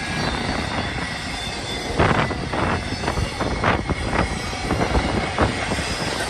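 Empty intermodal freight cars rolling past: a steady rumble of steel wheels on rail with irregular sharp clanks and knocks from the cars.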